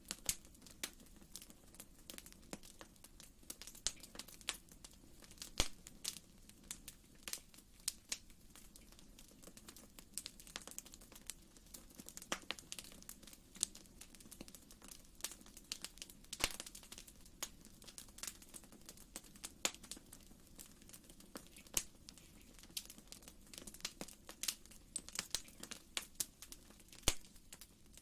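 Wood fire in a fireplace crackling, with irregular small pops and snaps over a soft, steady low rumble.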